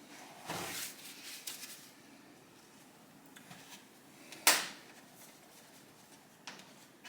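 Bench-work handling noises: a brief rustle or scrape near the start, a few light clicks, then one sharp knock about four and a half seconds in, and a smaller click near the end.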